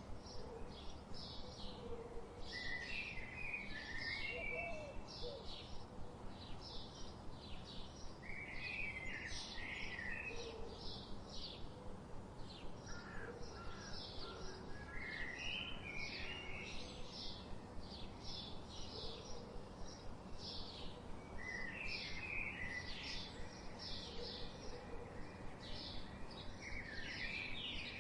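Songbirds chirping: a continuous run of short, high chirps, several a second, broken every few seconds by brief bursts of lower twittering, over a faint steady hiss.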